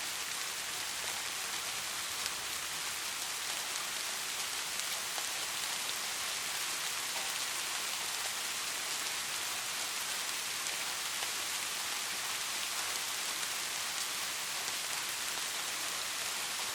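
Steady rainfall, an even hiss of many raindrops with faint scattered drop ticks.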